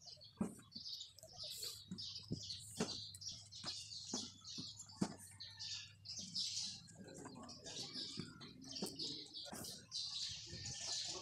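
Small birds chirping over and over in short high calls, with scattered sharp clicks and knocks.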